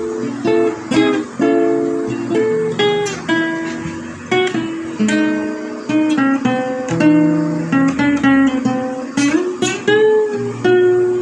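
Acoustic guitar music: plucked and strummed notes, each ringing out and fading before the next.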